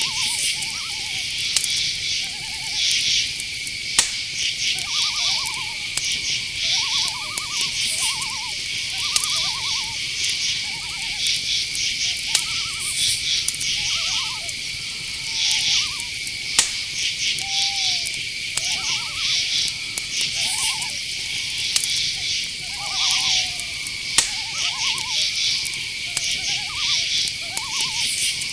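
Night-time insect chorus of crickets: a steady high trill with rhythmic pulsing chirps above it. Under it are many short, arched call notes at a middle pitch, a second or so apart and overlapping, with a few sharp clicks.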